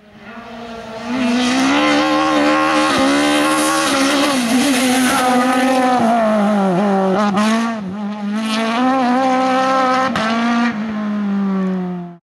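Race car engine at high revs under hard acceleration, its pitch climbing and dropping repeatedly through gear changes, with a few sharp cracks in the middle. It swells in over the first second and cuts off abruptly near the end.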